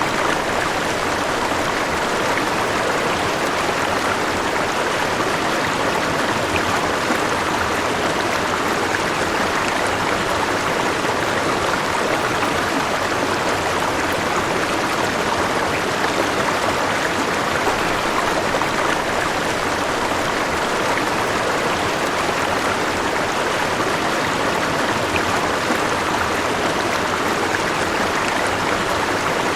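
River flowing: a steady, even rush of moving water.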